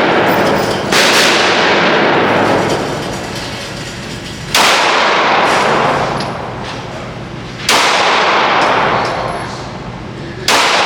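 Four gunshots, about three seconds apart, each ringing out in a long echoing decay.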